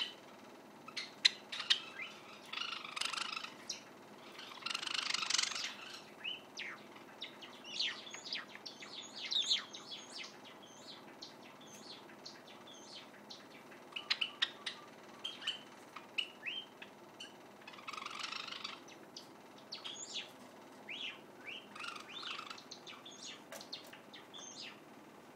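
Young white Java sparrow practising its song: scattered sharp clicks and high chirps, broken by a few short buzzy phrases about 3, 5, 18 and 22 seconds in.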